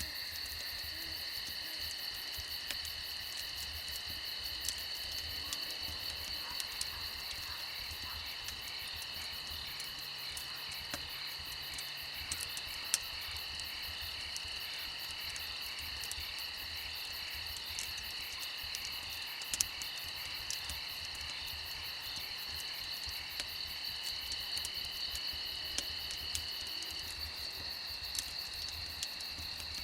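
Dense chorus of crickets trilling steadily, with scattered sharp pops and crackles of a wood campfire.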